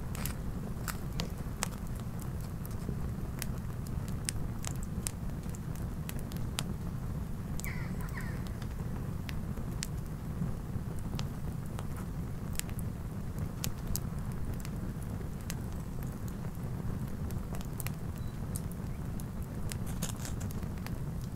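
Wood campfire burning: many sharp crackles and snaps scattered at irregular moments over a steady low rumble.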